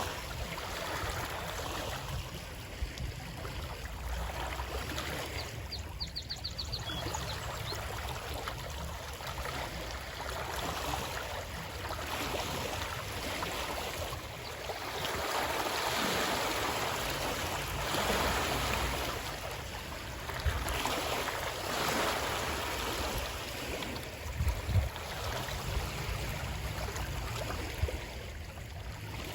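Running water, a continuous rushing and splashing that swells and ebbs every few seconds, with a couple of low knocks near the end.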